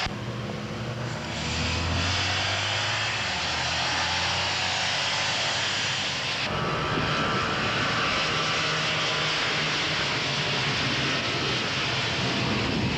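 Motorcycle engines running on a race track, a steady engine drone that changes abruptly about six and a half seconds in to a denser, noisier engine sound.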